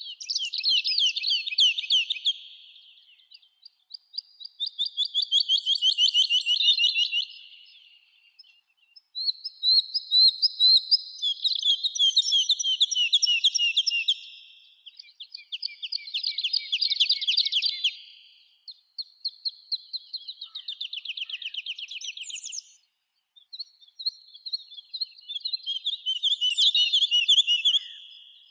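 Songbirds singing in a forest: fast trilled song phrases, each two to three seconds long, repeated about seven times with short pauses between.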